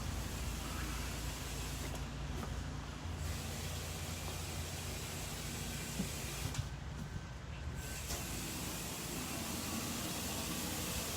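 Pressure washer spraying water with a steady hiss over the low hum of its engine. The hiss drops away briefly twice.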